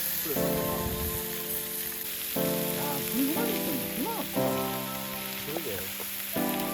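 Background music with sustained chords changing every second or two, over a steady sizzling hiss.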